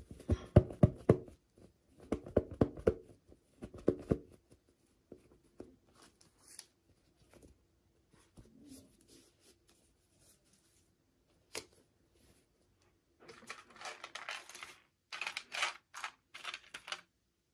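Toy packaging being handled and opened by hand: a run of dull taps and knocks in the first four seconds, a single sharp click in the middle, then crinkling and tearing of packaging near the end.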